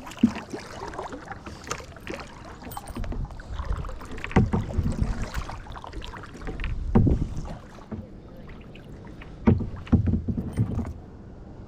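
Kayak paddling: a paddle dipping and pulling through the water about every two to three seconds, with sharp knocks at the start of some strokes.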